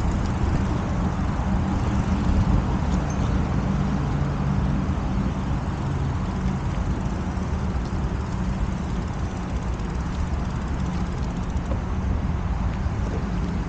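Steady wind noise over the microphone and rolling noise from a bicycle in motion, with a low hum throughout.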